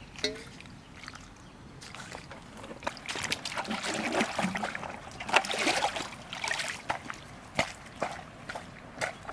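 Water sloshing and splashing in uneven bursts, heaviest in the middle, then a few short sharp splashes near the end.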